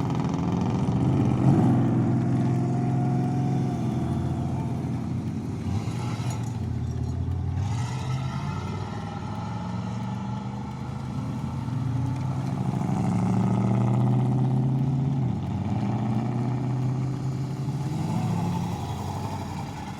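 Old cars' engines running as they drive slowly past one after another, a low engine note that swells and fades as each car goes by.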